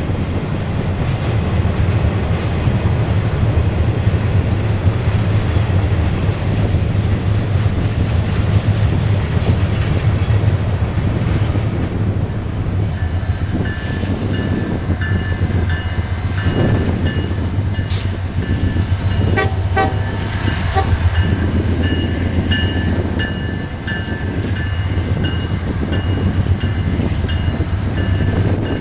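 Freight train rolling past close by: a steady low rumble of wheels and cars, with wheels clicking over rail joints. From about halfway, high-pitched ringing tones come and go repeatedly over the rumble.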